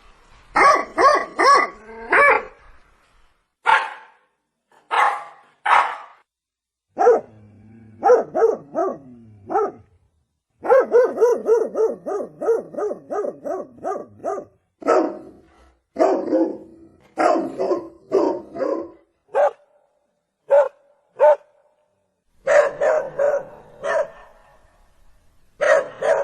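Domestic dog barking in repeated bursts: single sharp barks and quick runs of barks, with a fast string of about three or four barks a second in the middle, separated by short pauses.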